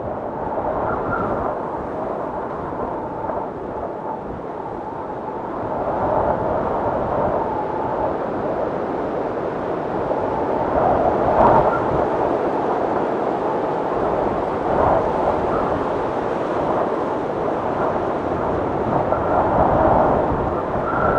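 Blizzard wind gusting: a steady rushing noise that swells and eases every few seconds, with a faint high whistle near the start, around the middle and near the end.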